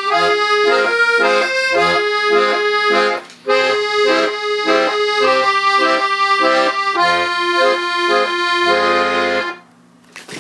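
Hohner accordion playing a folk tune, a melody over a rhythmic bass-and-chord accompaniment. It breaks off briefly about three seconds in, and the piece ends on a held final chord about nine and a half seconds in.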